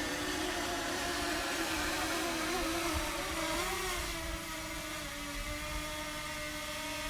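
DJI Mini 2 drone's propellers whining as it hovers close by in high winds, the pitch wavering for the first few seconds, then holding steady. Wind rumbles on the microphone underneath.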